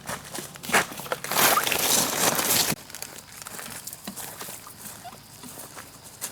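Rustling and crackling of leaves and brush, with a loud dense rush of rustling from about one second in until nearly three seconds in, then lighter scattered crackles.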